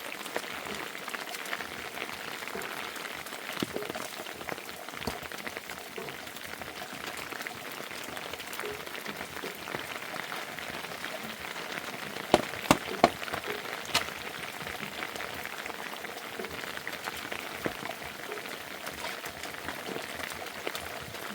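Steady rain pattering, dense with small drips and ticks. Three sharp knocks come close together about twelve seconds in, and another a second later.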